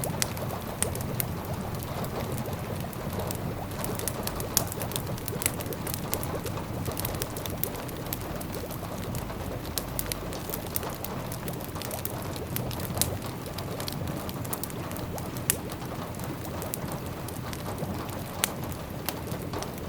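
Wood fire crackling in a fireplace over steady rain, with sharp crackles and pops scattered throughout.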